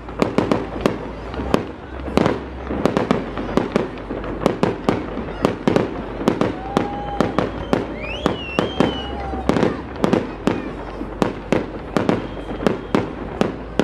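Fireworks bursting overhead in a rapid, irregular string of bangs, about three a second.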